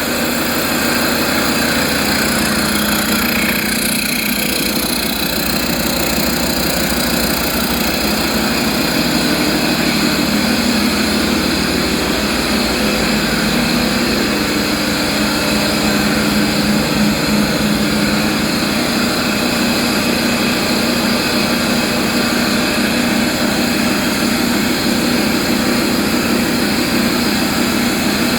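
Scania 13-litre XPI straight-six diesel truck racing engine running steadily, its note shifting slightly about four seconds in and again around halfway.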